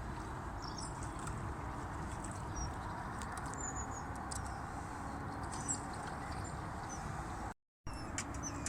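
Steady rush of floodwater, with scattered small clicks and splashes and a few faint high chirps; the sound drops out completely for a moment near the end.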